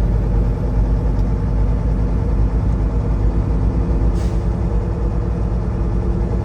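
Semi-truck's diesel engine running steadily on the road, with a brief hiss about four seconds in.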